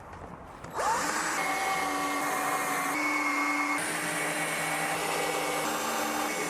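An electric motor spins up with a quick rising whine about a second in, then runs steadily at full speed with slight shifts in pitch.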